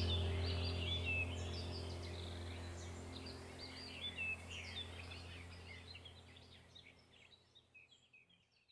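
Birds chirping and twittering over a low steady drone. The whole sound fades gradually until it is almost gone near the end.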